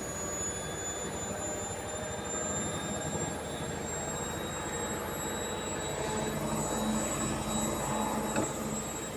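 Candy washing machine on its spin cycle: the motor's steady whine over a fast, even vibration and rattle. This shaking and knocking on spin is the fault the owner complains of.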